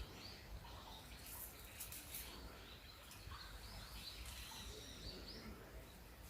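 Faint small-bird chirps and calls repeating over quiet outdoor background noise, with a few brief rustles.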